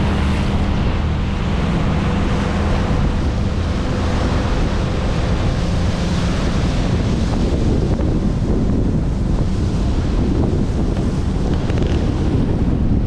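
Wind buffeting the microphone from a moving boat, with water noise and a steady low engine drone underneath that fades after the first few seconds.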